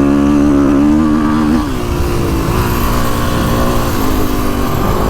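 2022 Kawasaki KX450X's single-cylinder four-stroke engine running under throttle, then easing off about a second and a half in and holding a lower, steady pitch.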